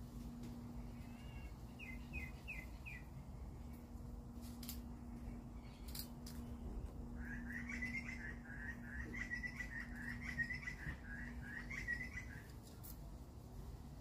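A bird calls: a quick run of four falling notes, then a few seconds later about five seconds of rapid warbling chirps. A steady low hum runs underneath.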